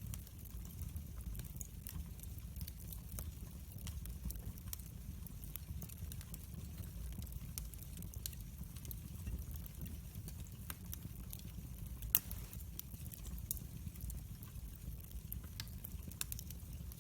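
Wood fire crackling, many small scattered pops over a low steady rumble of flames, with one sharper pop about twelve seconds in.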